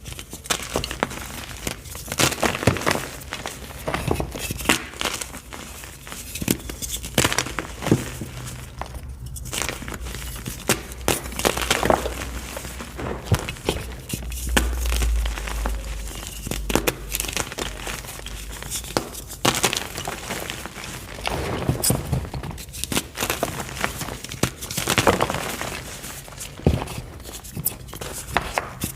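A block of white gym chalk (magnesium carbonate) being crushed by hand, with a run of irregular soft crunches and crumbling crackles.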